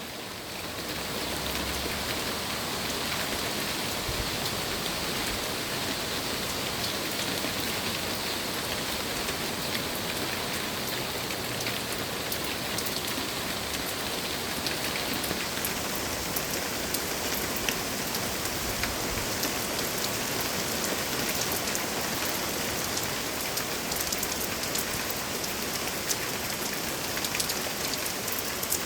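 Steady rain falling, with individual drops ticking sharply against a surface, the ticks coming more often in the second half.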